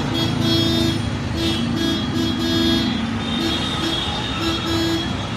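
Road traffic noise, with a string of short pitched notes that start and stop every fraction of a second over it.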